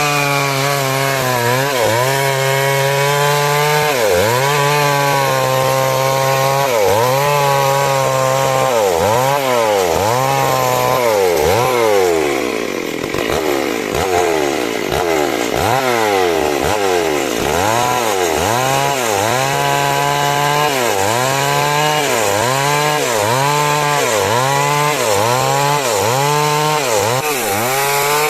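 Two-stroke chainsaw sawing through timber, its engine pitch dropping under load and climbing back again and again. The dips come about every two seconds at first and quicken to about one a second later on.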